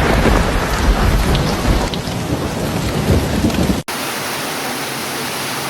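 Heavy rain with a deep rolling rumble of thunder. About four seconds in it cuts off abruptly and is replaced by a steady, even hiss of rain or rushing water with no rumble.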